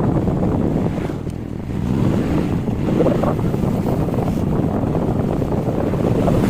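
Wind buffeting the microphone of a moving bike as a loud, steady low rumble that eases briefly about a second in.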